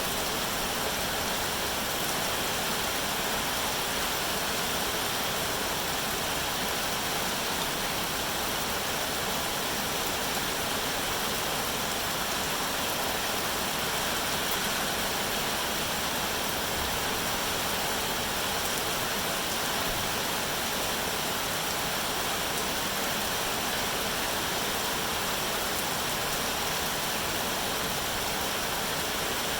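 Steady, even rainfall hiss with no single drops or other sounds standing out.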